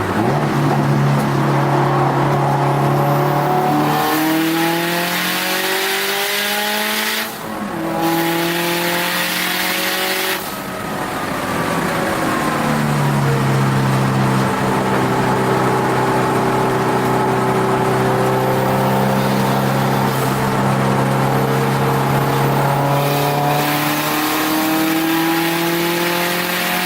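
Turbocharged Subaru WRX STi race car's flat-four engine, heard from inside the cabin, pulling hard on a road course: the engine note rises with revs, dips briefly twice about seven and ten seconds in, holds fairly steady through the middle, then climbs again near the end.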